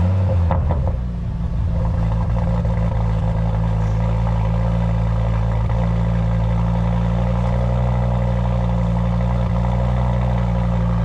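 Car engine running loudly close by, revving slightly in the first second and then settling into a steady idle.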